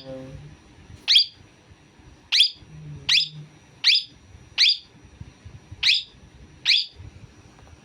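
A pet bird giving short, shrill calls, each one falling steeply in pitch, seven times at roughly one-second intervals.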